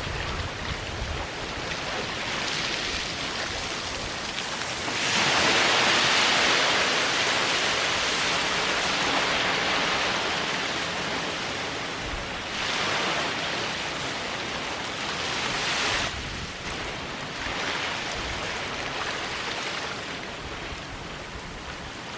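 Waves washing onto a sandy beach: a steady surf hiss that swells louder about five seconds in and again about twelve seconds in as waves break and run up the shore.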